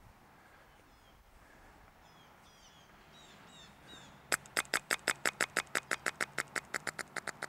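A bird calling: a few faint high chirps, then a rapid run of about twenty short sharp notes, about six a second, slowing slightly and fading toward the end.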